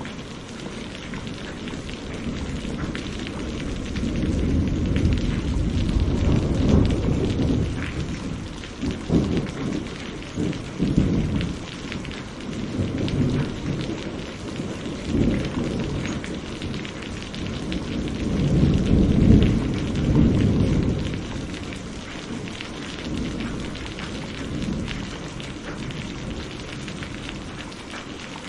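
Steady heavy rain with thunder rumbling. There are two long rolls, one a few seconds in and one about two-thirds of the way through, and sharper claps between them.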